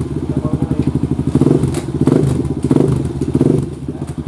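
Kawasaki KLX's single-cylinder four-stroke engine running through an aftermarket GP7 exhaust, with a fast, even beat. The throttle is blipped about four times, each rev swelling and falling back to idle.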